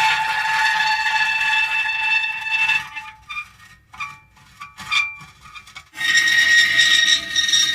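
Metal creaking: drawn-out high-pitched squeals, broken into short separate squeaks in the middle, then long squeals again near the end.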